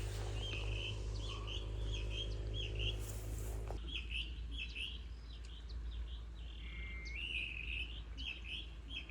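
High, short chirping calls repeated about twice a second, with one longer drawn-out call about seven seconds in. The sound is called a chicharra (cicada).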